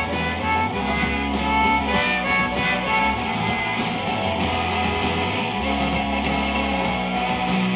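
Live rock band playing an instrumental passage between vocal lines, guitars over a steady bass line.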